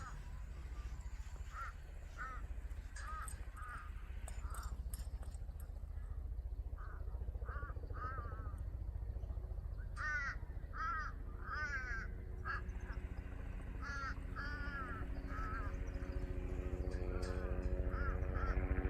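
A bird calling over and over in short, arched notes, over a steady low rumble. From about two-thirds of the way through, a motor's steady hum comes in and grows louder.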